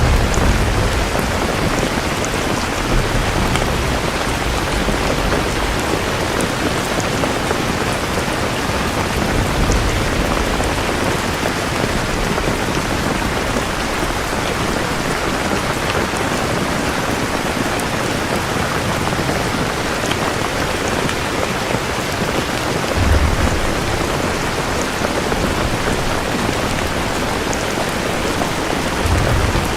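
Steady heavy rain falling, with low rumbles of thunder at the start and two short rumbles later, one about three-quarters of the way through and one near the end.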